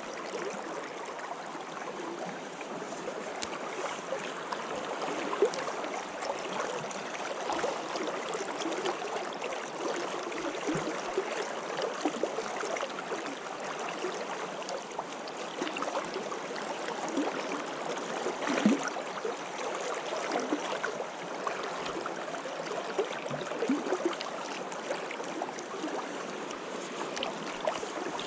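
Stream water running steadily, with many small gurgles.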